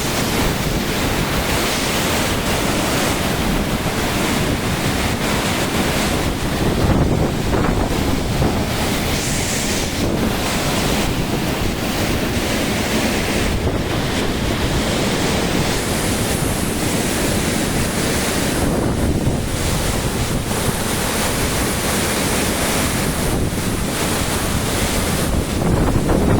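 Waterfall's falling water making a steady loud rush, with wind buffeting the microphone.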